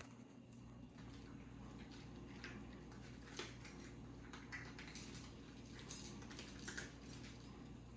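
Cats eating from a food bowl: faint, irregular clicks and crunches, busiest in the middle, over a steady low hum.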